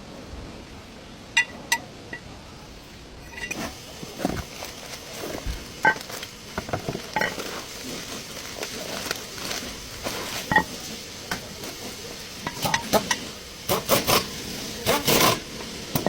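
Metal tools and parts clinking and clanking as they are handled, in an irregular run of sharp knocks and ringing clinks. A couple of clicks come early, and it grows busier near the end.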